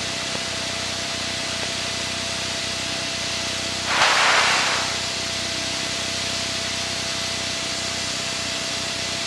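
Steady hiss of a cockpit radio and intercom feed with a thin steady whine. About four seconds in, a burst of radio static lasts about a second, like a transmitter keyed with no voice.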